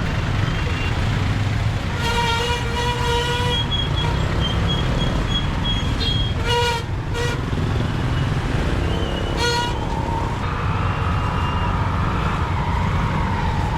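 Ride on a motorbike through city traffic: steady low rumble of engines and road noise, with vehicle horns tooting three times, first about two seconds in, then around the middle, and once more shortly after.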